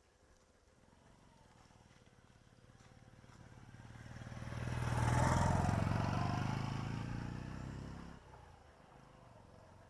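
A motorcycle passing close by: its engine grows louder over several seconds, is loudest about five seconds in, then fades and drops away suddenly about eight seconds in.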